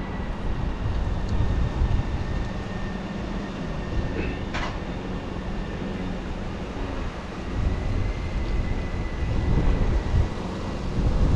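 A large engine running steadily, with gusty low rumble over it and a single sharp click about four and a half seconds in.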